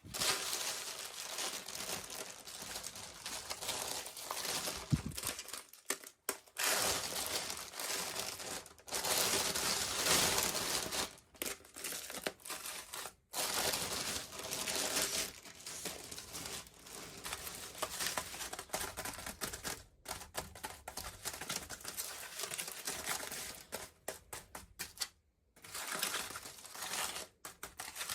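Packaging crinkling and tearing as a toy is unwrapped by hand, in almost unbroken rustling with a few brief pauses.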